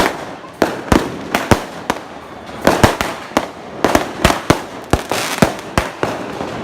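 Fireworks going off: an irregular string of sharp bangs, two or three a second, with a short lull about two seconds in.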